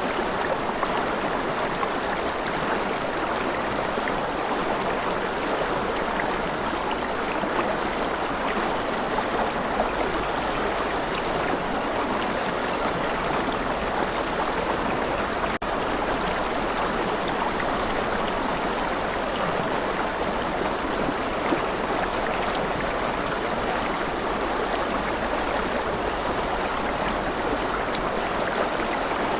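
Rushing river: a steady, even rush of flowing water, with a split-second break about halfway through.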